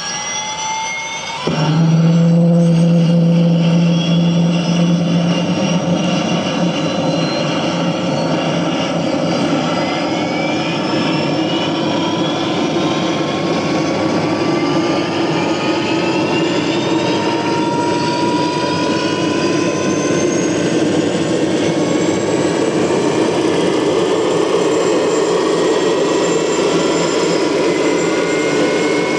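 Sound module of an RC scale MD 500E helicopter playing a turbine spooling up: several whines climb slowly in pitch, and about a second and a half in a louder layer with a strong low hum cuts in, then holds steady while the whines keep rising.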